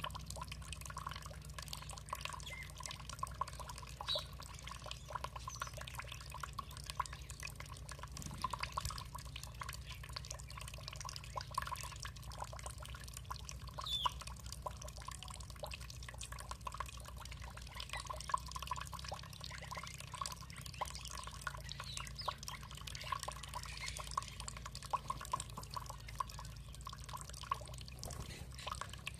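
Water trickling and dripping: a dense, continuous patter of small drips and splashes over a steady low rumble.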